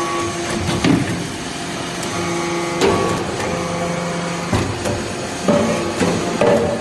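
Hydraulic metal swarf baler running: a steady hum from its hydraulic power unit, broken by sharp metal clanks, about six of them at uneven intervals.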